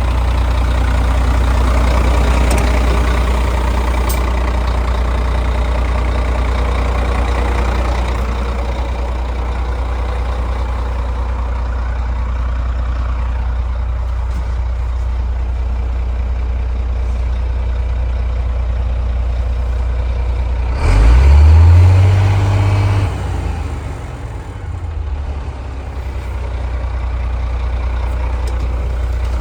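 Scania P380 dump truck's diesel engine idling steadily, with one brief rev about two-thirds of the way through that rises and falls back to idle.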